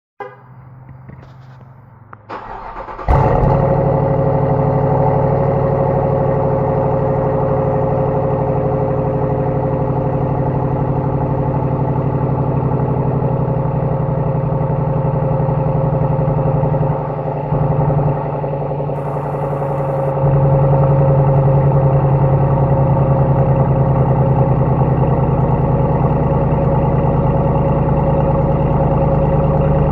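Dodge Durango GT SUV engine cold-started through its stock exhaust: the starter cranks briefly and the engine catches about three seconds in, then settles into a steady cold idle. The sound dips for a few seconds past the midpoint and comes back a little louder.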